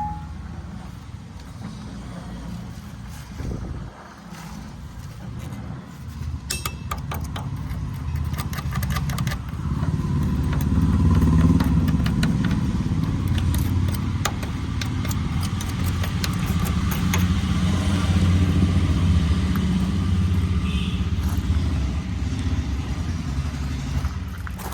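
Deutz-Fahr Agrolux 50 tractor's engine running steadily, growing louder about ten seconds in, with some metallic clicking before that.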